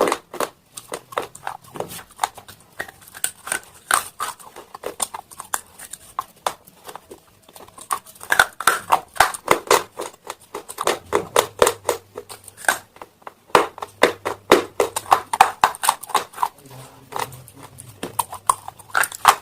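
Close-up chewing of hard, brittle slate stone pieces: a fast, irregular run of crisp crunches in clusters, with a few short lulls.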